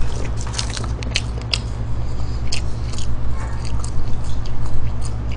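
Close-miked chewing of McDonald's french fries: a run of small irregular clicks and smacks from the mouth, over a steady low hum.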